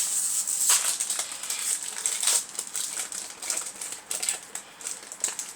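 Foil trading-card booster pack being ripped open across the top and crinkled, then the cards handled, with a run of irregular crackles and snaps that is busiest in the first couple of seconds.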